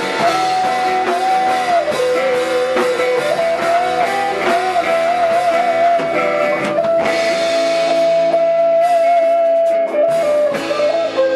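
Live band playing an instrumental passage of a worship song: guitars and drum kit under a melody line of held notes that step up and down.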